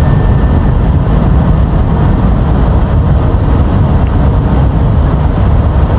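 Steady, loud rumble of airflow and engines in an Airbus A320 cockpit in flight, with the landing gear down.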